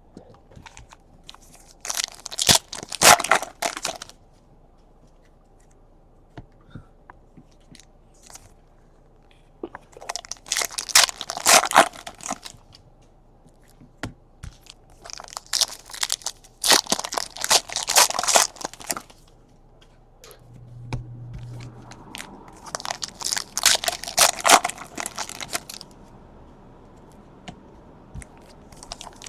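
Foil trading-card pack wrappers being torn open and crinkled by hand, in four separate spells of a couple of seconds each.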